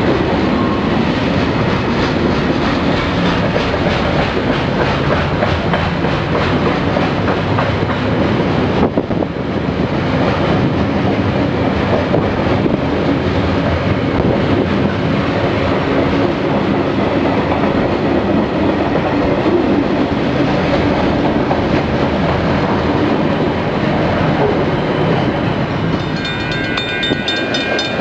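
A train running past close by, its wheels clattering steadily on the rails. Near the end a set of high, steady ringing tones comes in.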